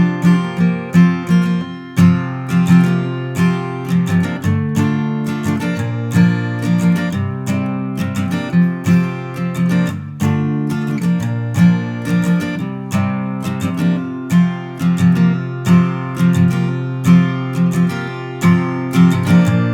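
Acoustic guitar strummed in a steady rhythm, an instrumental break of a country-folk song with no singing.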